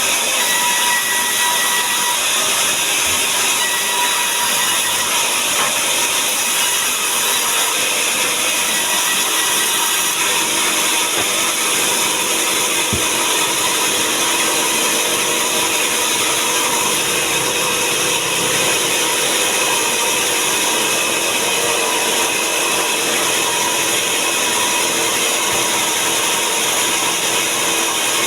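A power saw running steadily while cutting through timber, a continuous loud whine with no letup.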